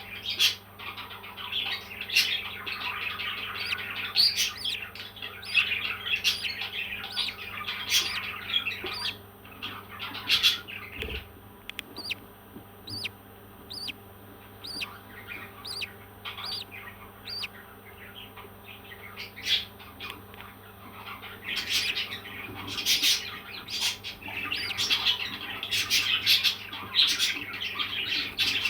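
Parrot chirping in quick, overlapping calls, dense for the first nine seconds, thinning to scattered single chirps, then busy again from about twenty-one seconds in.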